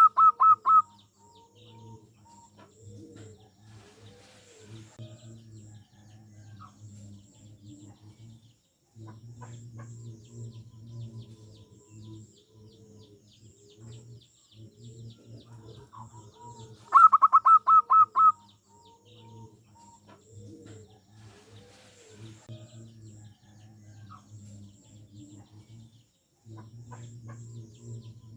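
Zebra doves (perkutut) cooing continuously in low, rolling phrases, with short pauses between runs. Twice, once right at the start and again about 17 seconds in, a much louder burst of rapid, high staccato bird notes cuts in for about a second.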